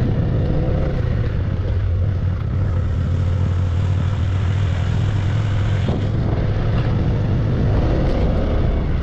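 Motorcycle engine running at a steady cruise while riding, a constant low drone, with steady wind and road noise over it.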